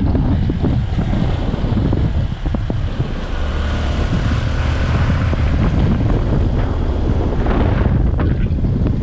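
A vehicle engine running while travelling, with heavy wind rumble on the microphone.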